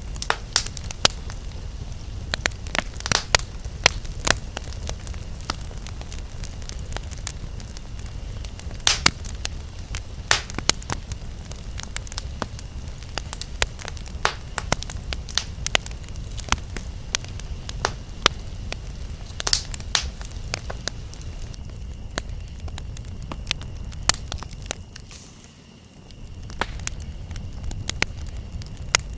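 Campfire crackling, with frequent sharp pops and snaps over a steady low rumble that briefly fades about 25 seconds in. A faint, steady high insect drone of cicadas or crickets runs underneath.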